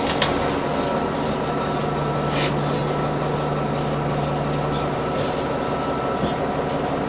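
NovaBus TL-40102A low-floor city bus running in service, heard from on board, with a steady drone from the drivetrain. A click comes just after the start and a short hiss about two and a half seconds in.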